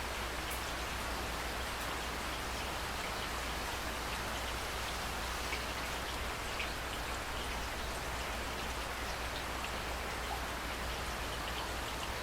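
Steady rain falling, with scattered drops ticking on a hard surface over an even hiss and a low steady rumble underneath.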